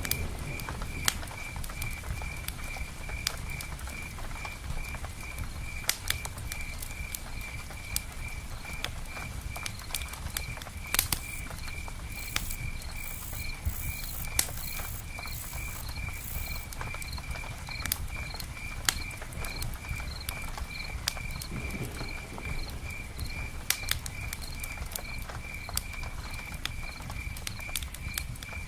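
Campfire crackling in sharp, irregular pops over a steady low rumble of rain. A high, pulsing call repeats evenly, several times a second, throughout, and a brief flurry of very high chirps comes about halfway through.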